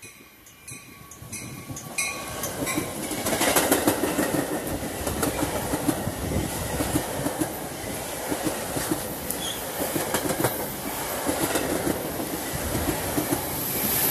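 Metra push-pull commuter train running through a station at speed without stopping: the rush of passing cars builds about two seconds in, with clickety-clack of wheels over the rails. The diesel locomotive pushing at the rear comes past near the end.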